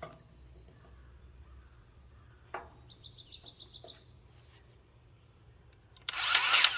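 Birds chirping in short, quick trills, a single click about two and a half seconds in, then near the end the motor of an 18-volt Ryobi cordless grease gun whirring loudly as it pumps grease into a fitting.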